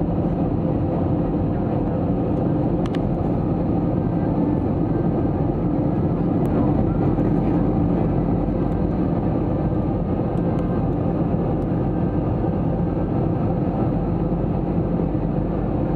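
Airbus A321-200 passenger cabin in flight: a steady, deep rush of airflow and engine hum, with a faint click about three seconds in.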